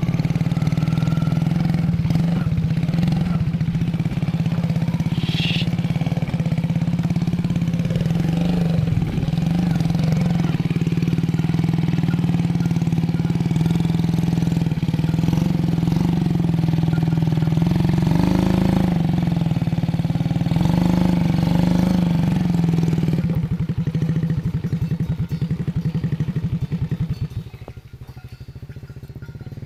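An engine running steadily with a constant low hum, its pitch wavering slightly now and then; it drops away near the end.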